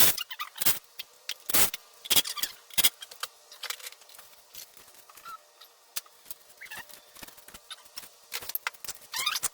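Irregular short clicks and scrapes: several sharp ones in the first three seconds, scattered lighter ones after, and a dense cluster near the end.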